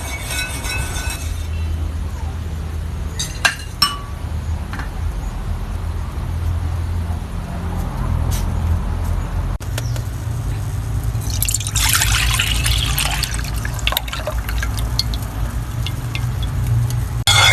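Liquid being poured into a glass bottle, with a couple of sharp glass clinks about three and a half seconds in, over a steady low rumble.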